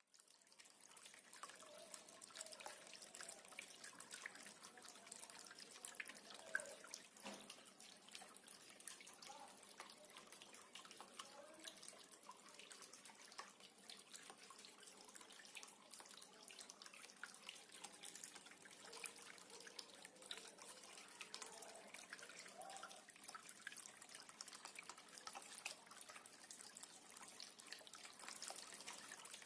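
Faint trickling and dripping of water falling in a small cement tabletop fountain, a light continuous patter of small drops.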